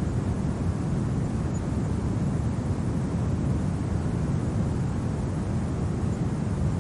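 Steady, low rumbling winter wind, an even roar with no gusts or breaks.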